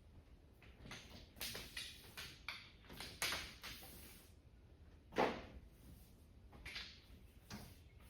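Scattered light clicks and clatter of metal hand tools being handled, with one louder knock about five seconds in.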